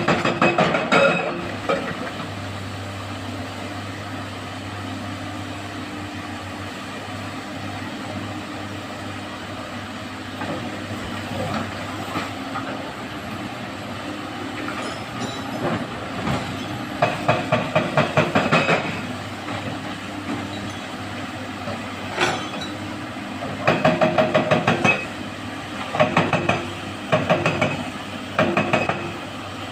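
Komatsu excavator engines running under load, with a steady low hum and then several bursts of rapid, rhythmic metallic clattering and rattling from the heavy machinery.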